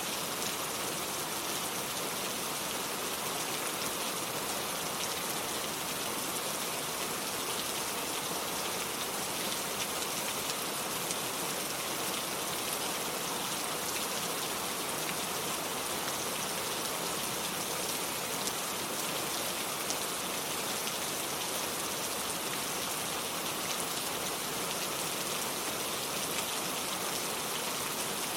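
Steady rain falling, an even hiss with faint ticks of single drops scattered through it.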